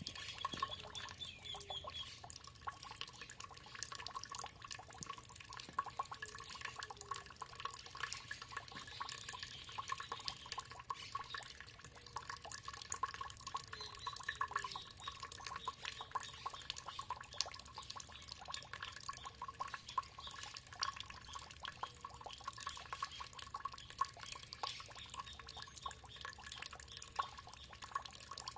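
Water trickling and dripping in a dense, irregular patter of small splashes, with birds calling now and then, including a short run of high notes near the start.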